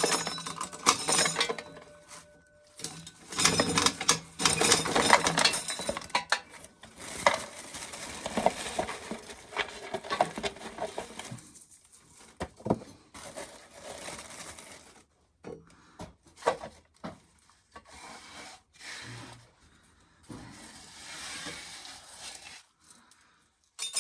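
Irregular clattering and rattling of dry corn being handled, ears and kernels knocking against each other and the surfaces around them, in uneven bursts with short pauses.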